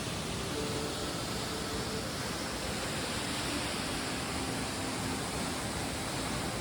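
Waterfall's steady rush of falling water: an even hiss that holds level throughout.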